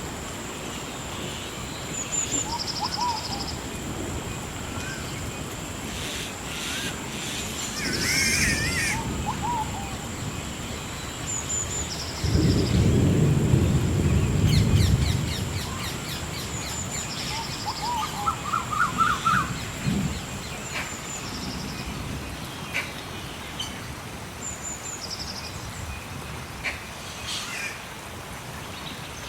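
Rainforest soundscape: a steady high whine runs under short trilling calls that repeat every few seconds, along with scattered bird chirps and calls. A low rumble swells about halfway through, then fades.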